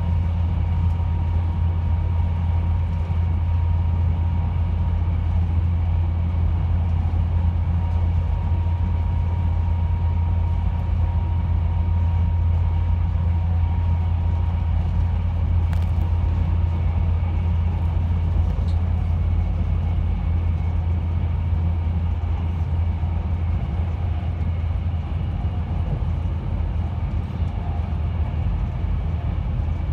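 Steady low rumble of a moving train, heard from inside the carriage. A faint thin whine sits above it and fades out about halfway through.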